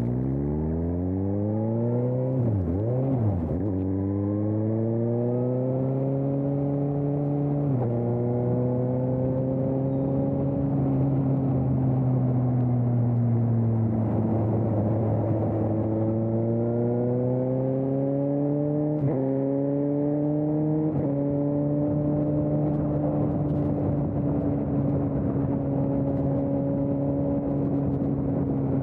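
2020 Suzuki GSX-S750's inline-four running through an aftermarket Storm exhaust under a riding load. The engine pitch climbs with throttle and drops suddenly at several gear changes, then holds a steady cruising note for the last several seconds.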